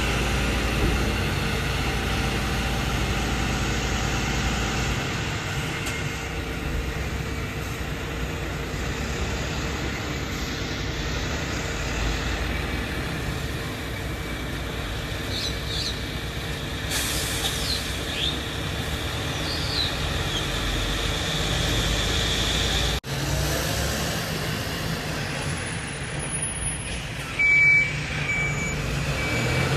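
Heavy diesel garbage trucks running with a steady low rumble. Near the end a truck's reversing alarm starts beeping.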